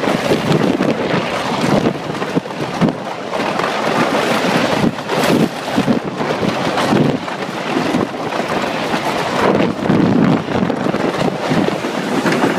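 Wind rushing over the microphone from the front row of a moving wooden roller coaster train, with the rumble of the cars on the track, surging and easing in gusts throughout.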